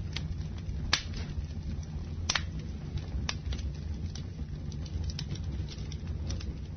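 Campfire crackling: a steady low rumble under sharp wood pops every half second to a second, the loudest about a second in and again a little after two seconds.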